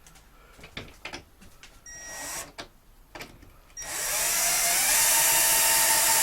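A few light knocks and clicks, then, near the end, a power drill-driver starts up: its whine rises as the motor spins up and then holds steady while it turns a screw.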